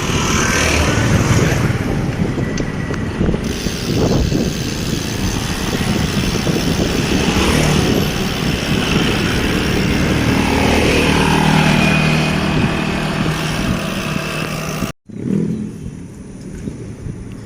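Wind rushing on the microphone with passing motor traffic, a motorcycle engine note rising and passing about ten seconds in. Near the end the sound drops suddenly to a much quieter background.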